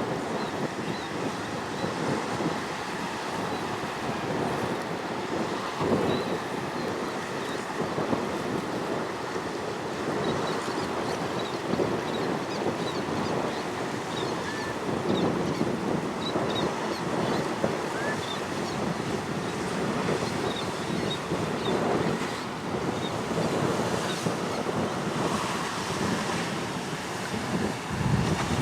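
Strong wind buffeting the microphone over the wash of choppy waves, a steady rushing noise with faint high chirps scattered through it.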